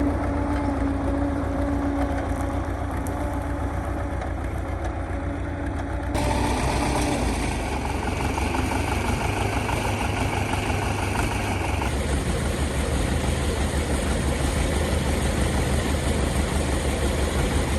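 An engine running steadily with a deep low rumble; the sound changes abruptly about six and again about twelve seconds in.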